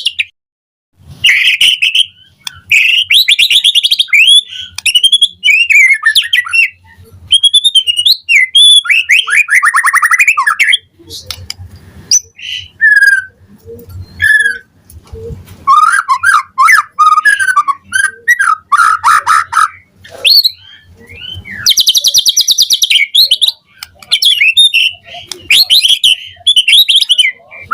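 White-rumped shama singing a loud, varied song of whistled phrases, slurred glides and rapid trills, with short pauses between phrases.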